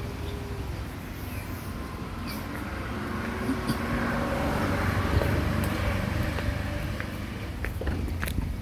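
A motor vehicle's engine running, a low steady rumble that swells a little towards the middle, with a few light clicks near the end.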